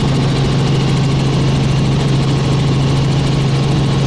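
Helicopter in flight, heard from inside the cabin: a loud, steady drone of engine and rotor with a strong low hum that does not change.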